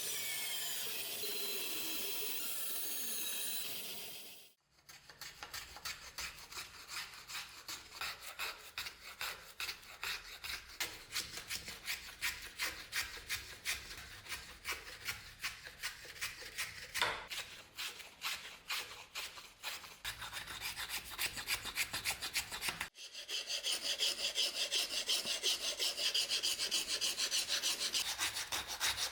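A steady hiss for about four and a half seconds, then, after a cut, hand abrasive strokes rubbing back and forth on the knife at a few strokes a second. After another cut near the end, the strokes become quicker and brighter, like hand sanding.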